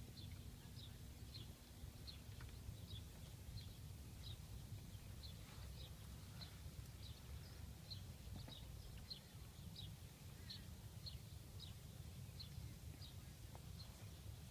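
A small bird chirping over and over, short high notes about twice a second, faint over a low steady rumble.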